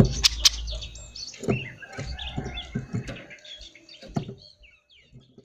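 Oriental magpie-robin (kacer) singing a varied run of quick whistles and chirps, with sharp clicks and low knocks mixed in, thinning out near the end.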